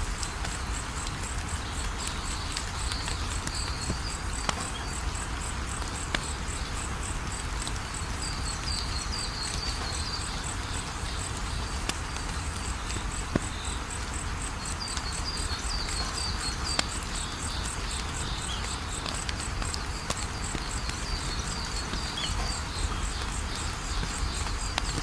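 Wood fire crackling, with scattered sharp pops. Behind it, crickets trill in a fast, even, high-pitched pulse, with small high chirps now and then.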